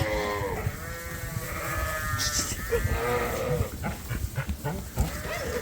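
Suffolk ewe lambs bleating, about four calls, some overlapping, while they are driven between barns. In the last two seconds the calls stop and a scatter of short knocks follows.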